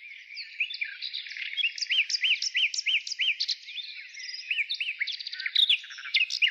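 Several birds chirping and calling at once: a dense chorus of quick, repeated short notes.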